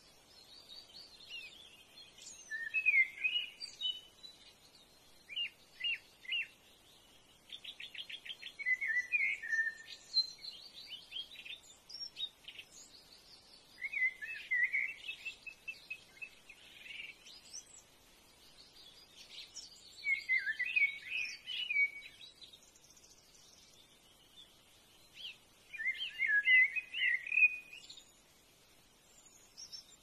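Wild birds singing and chirping: warbled song phrases come every few seconds, with a fast rattling trill about eight seconds in.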